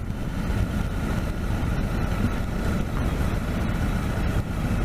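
Motorcycle engine running steadily, a continuous low rumble with road or wind noise.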